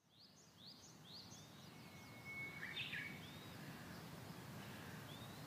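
Faint outdoor ambience fading in: a low steady hum with small birds chirping, first a quick run of short chirps, then a thin whistled note about two seconds in and a few scattered calls.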